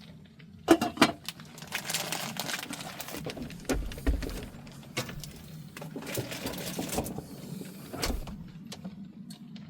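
Cooking clatter: a utensil knocking and scraping in a pan of turkey burger and broccoli being stirred, with a few sharp clanks near the start. A steady low hum runs underneath.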